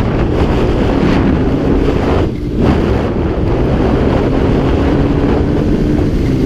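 Dirt bike engine running while riding, nearly buried under heavy wind buffeting on a helmet-mounted camera's microphone. The engine note dips briefly about two and a half seconds in, then picks up again.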